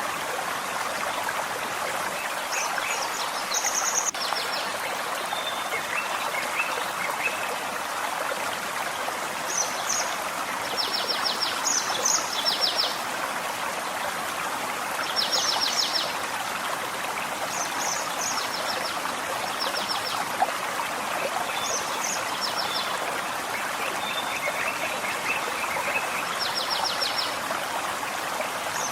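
Forest stream flowing steadily over rocks, with small birds singing short phrases of rapid high notes every few seconds.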